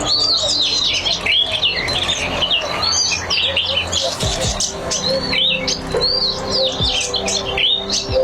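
Cici padi (zitting cisticola) singing busily: a dense run of rapid, high arching chirps and short whistled notes with no pause.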